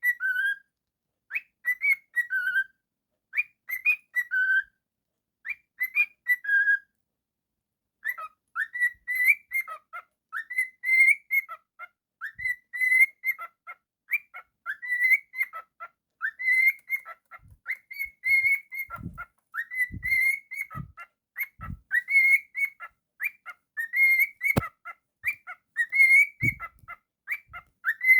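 Cockatiel whistling. A short rising-then-falling phrase repeats about every two seconds, then after a brief pause comes a quicker run of whistled notes. A few soft low thumps fall in the second half.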